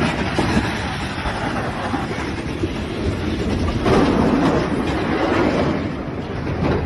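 A heavy vehicle running close by: a steady rumble with a rattling clatter, louder from about four seconds in.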